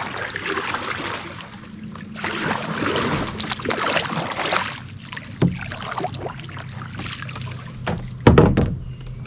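A kayak being paddled: water swishes with each stroke for the first few seconds, then there are a few hollow knocks against the kayak hull, the loudest a little after eight seconds.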